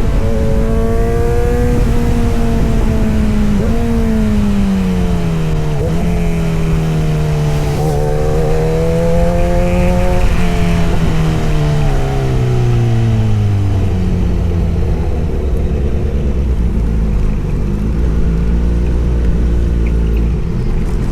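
Kawasaki Z900 inline-four engine and exhaust, its pitch climbing and dropping back several times in the first ten seconds, then falling away to a low, steady note.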